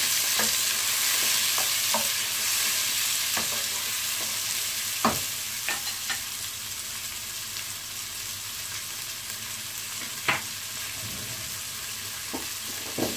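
Chopped onions and green chillies sizzling as they fry in hot oil in a pot, with a steady hiss that eases a little over time. A few sharp knocks come about five and ten seconds in.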